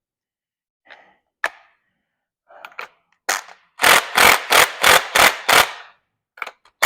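Impact wrench fired in a quick series of short bursts, about seven blips in two seconds, after a few faint clicks of tools being handled.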